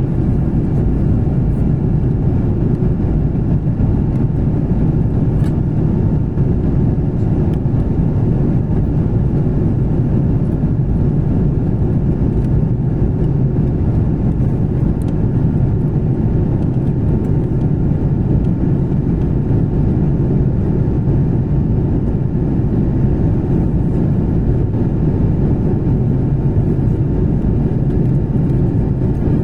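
Airliner cabin noise: jet engines and airflow as a steady low rumble, with a faint steady whine above it.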